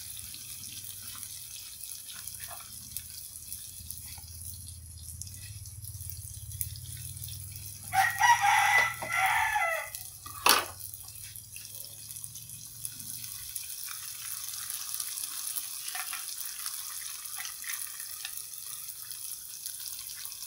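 Tofu sizzling steadily as it fries in oil in a pan. About eight seconds in, a rooster crows once for about two seconds, and a sharp click follows just after.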